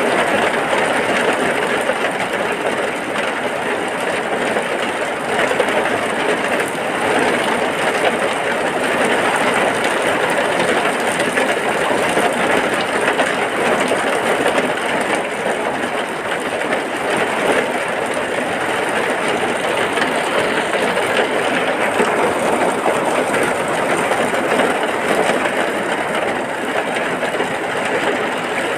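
Heavy rain falling steadily, an even wash of noise with no breaks or changes.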